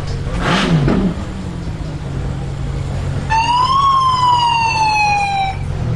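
Ferrari LaFerrari's V12 running steadily at low revs as the car rolls slowly away, with a brief rush of noise about half a second in. Partway through, a high whistle-like tone rises briefly, then slowly falls for about two seconds and stops.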